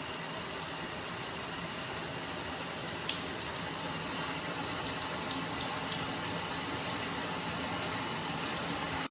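Shower running: water spraying steadily from the shower head.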